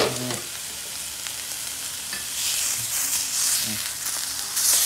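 Hamburger patty and onions sizzling as they fry in a skillet. A pan lid clanks as it comes off at the start, a spatula scrapes under the patty, and the sizzle flares up louder near the end as the patty is flipped.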